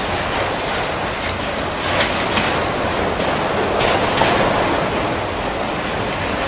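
Freight train of autorack cars rolling past close by: a steady rumble and rattle of steel wheels on the rails, with a few sharp clacks about two and four seconds in.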